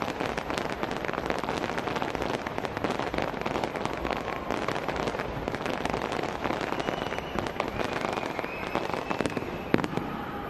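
Fireworks display: dense, continuous crackling and popping of many bursting shells, with one louder bang near the end.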